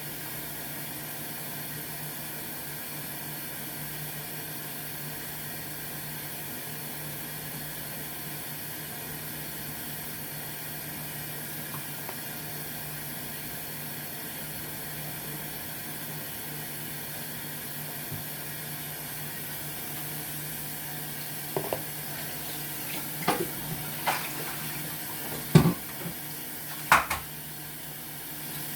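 Kitchen sink tap running steadily, with a handful of sharp clinks and knocks of dishes or utensils in the last several seconds.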